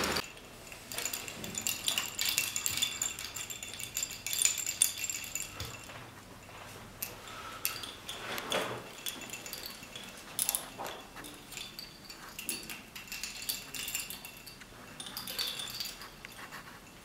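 Small hard parts of a scale-model sound wall tinkling and clinking together like a wind chime: irregular clusters of light taps, each with a short high ringing tone, busiest in the first few seconds and again near the end.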